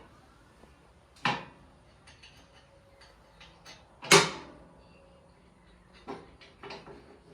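Hard knocks and clinks from parts being handled while a zero-turn mower deck is taken off: two sharp knocks about a second and four seconds in, the second the loudest, then lighter taps and ticks.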